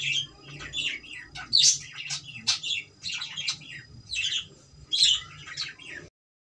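Cockatiel chirping: a quick run of short, high chirps and calls, several a second. It cuts off abruptly near the end.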